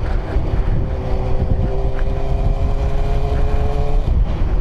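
Yamaha FZ1's inline-four engine running at a steady pitch while the motorcycle cruises, under heavy low wind rumble on the microphone. The engine note breaks off about four seconds in.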